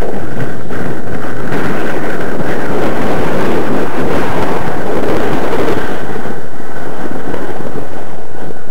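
Strong gusty wind buffeting the microphone, loud and continuous, with the faint steady drone of the SPAD model plane's ASP .61 glow engine in flight underneath it.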